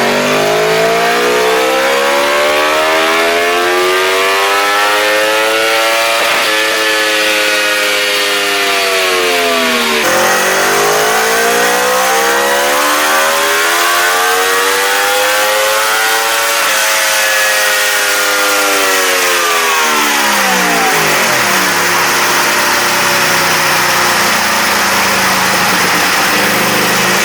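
Aprilia RSV4's V4 engine, through its stock exhaust, on a dyno: it pulls up through the revs under load, the pitch rising for several seconds before dropping sharply, then pulls up a second time and winds down. It settles to a low steady idle near the end.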